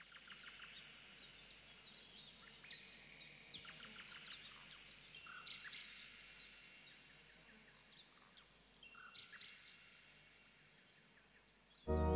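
Faint birdsong: several small birds chirping and calling in short notes that sweep up and down in pitch, over a soft hiss. Music comes in suddenly at the very end.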